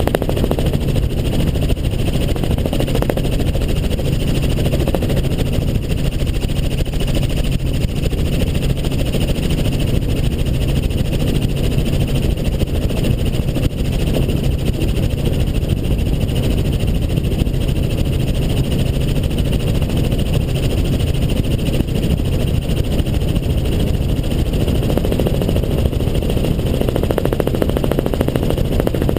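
Helicopter in flight: steady, loud engine and rotor noise with a constant low hum and no change in pitch.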